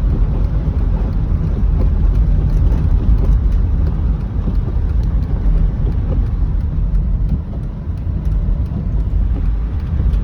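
Road noise of a car being driven, heard from inside the cabin: a steady low rumble of tyres and engine, with faint scattered ticks.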